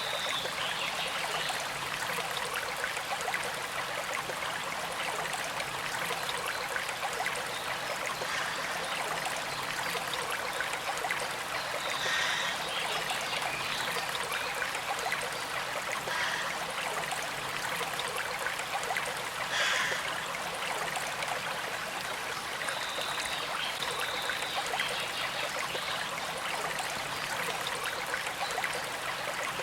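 Small creek flowing and trickling steadily, with a few brief higher-pitched sounds now and then.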